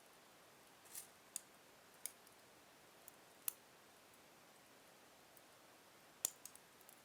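Logs burning slowly in a fireplace, crackling quietly: scattered sharp pops and snaps over a faint hiss, with the loudest pop near the end followed by a quick run of smaller ones.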